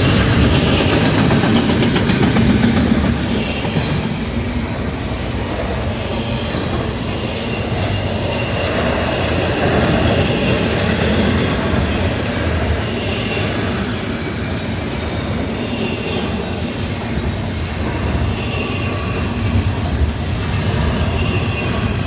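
Double-stack container freight train cars rolling steadily past, steel wheels running on the rails.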